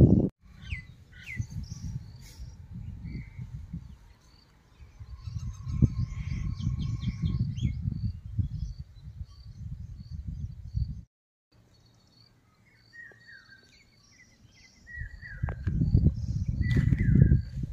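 Several small birds chirping and calling, with short high notes and quick falling whistles, over an uneven low rumbling noise. The sound drops out almost completely for about a second midway.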